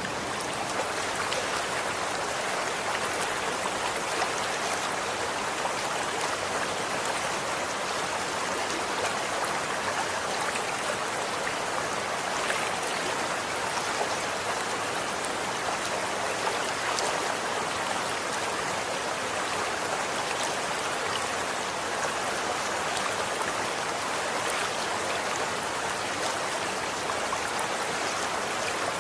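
Running water flowing steadily: an even rush with small splashes and drip-like ticks through it.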